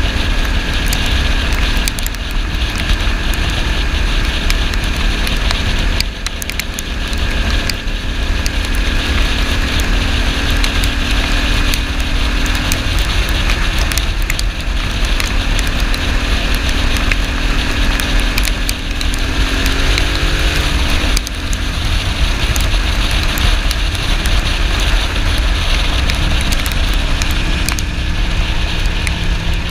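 Ducati Monster S2R 800's air-cooled L-twin engine running under way, with heavy wind buffeting on the microphone. The engine note climbs and then drops sharply about two-thirds of the way in, as at a gear change.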